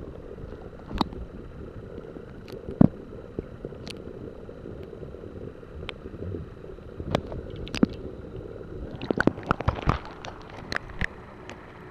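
Water gurgling and sloshing close to the microphone with a low rumble, broken by irregular sharp knocks and clicks that come thick and fast for a couple of seconds near the end.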